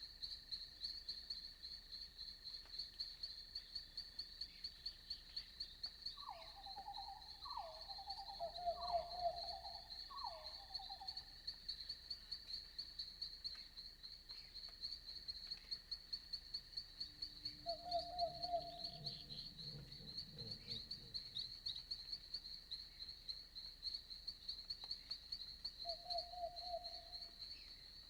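Night insects chirping in a fast, even pulse, with a faint steady drone beneath it. A run of four short, lower calls comes about a quarter of the way in, and single short calls come around the middle and near the end.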